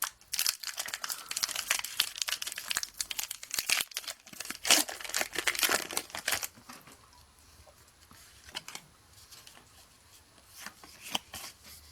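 Pokémon TCG booster pack's foil wrapper being torn open and crinkled for about six and a half seconds, followed by a few faint rustles of handling.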